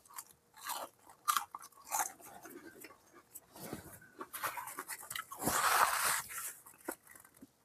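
A man biting and chewing crunchy fried fast food, with scattered crunches and mouth clicks. About five and a half seconds in there is a louder, longer rustling swish as a paper napkin is wiped across his mouth.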